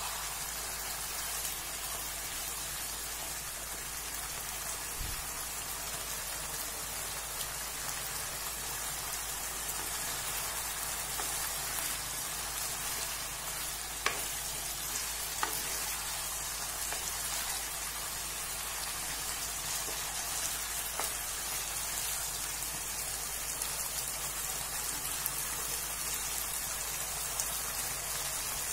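Beef and thick masala sizzling steadily in a nonstick kadai as the gravy cooks down and thickens onto the meat, with a few clicks of a wooden spoon stirring it around the middle.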